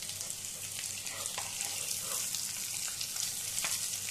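Stuffed parwal (pointed gourd) sizzling steadily as they shallow-fry in oil in a kadhai, with a few short clicks as a steel spoon turns them in the pan.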